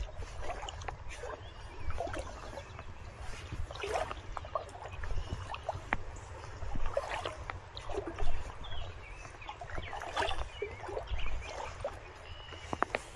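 River water trickling and splashing, with irregular light splashes every couple of seconds over a steady low rumble.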